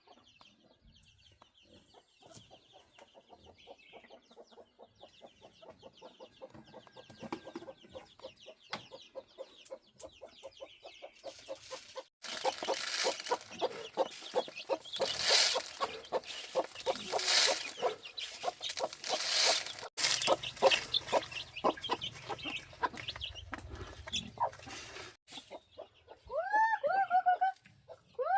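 Chickens clucking, a dense chatter of short calls that gets much louder about twelve seconds in. A few short rising-and-falling calls come near the end.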